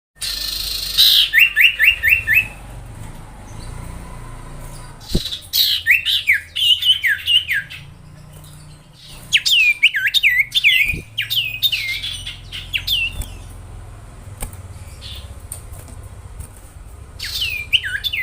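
A sirtu songbird singing: phrases of rapid, sharply falling whistled notes, several in quick succession, repeated with short pauses between, over a steady low hum.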